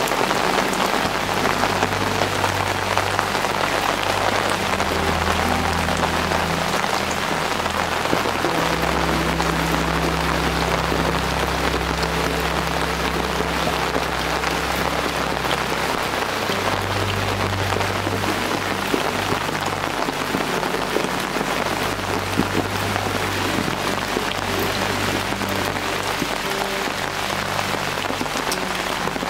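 Steady rain falling, an even hiss of drops at a constant level, with low sustained notes of soft background music that change every few seconds.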